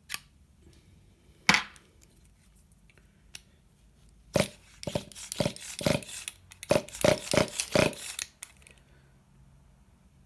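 Sharp knocks and taps: two single knocks near the start, then a quick run of about a dozen clattering knocks in the middle, several with a short light ring.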